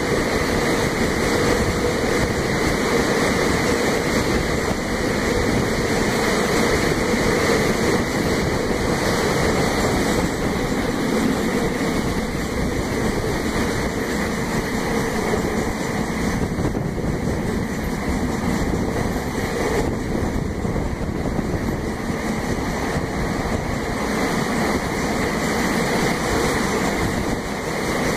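Freight train rolling steadily, heard from on board: a continuous rumble of wheels on the rails mixed with the noise of the moving train.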